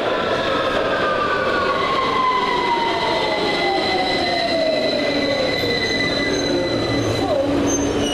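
London Underground train running with its traction motors whining and falling steadily in pitch as it slows. Under the whine is a continuous rumble, with a thin, steady high squeal from the wheels.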